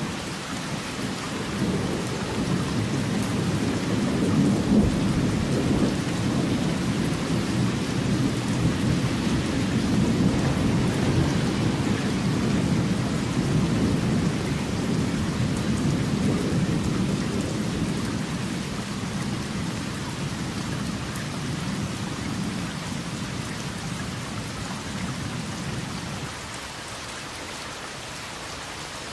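Steady rain with a long roll of thunder that rumbles up in the first seconds, swells, and dies away near the end, leaving only the rain.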